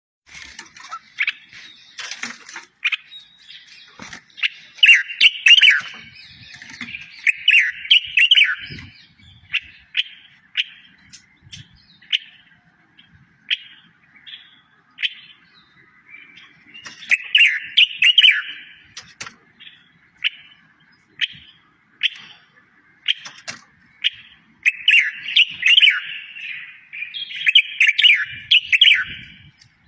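A small songbird singing: single sharp chirps spaced a second or so apart, broken by several bursts of quick twittering, warbling phrases, the loudest near the start, in the middle and near the end.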